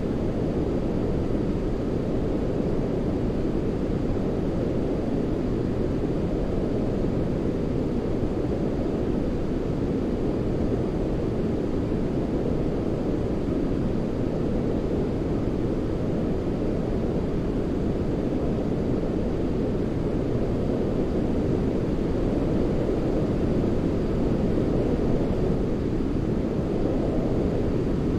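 Steady baby-sleep white noise, deep and muffled rather than hissy, like a low rushing rumble, running without change.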